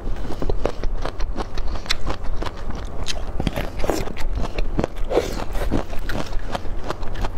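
Chewing crisp bamboo shoot: a dense run of irregular wet crunches and clicks.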